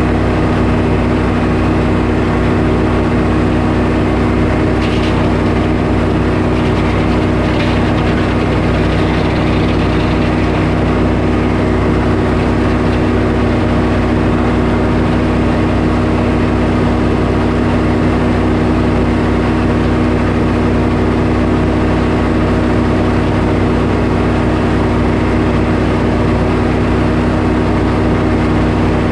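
Sawmill engine running steadily at constant speed, with a couple of faint clicks about five and seven and a half seconds in.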